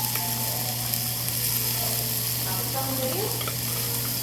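Meat sizzling on a grill, a steady hiss, over a constant low hum and faint background voices.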